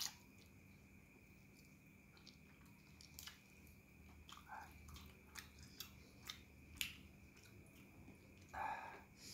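Faint close-up chewing of rice and goat curry eaten by hand, with scattered wet mouth clicks and smacks over a faint steady hum. A short breathy rush near the end.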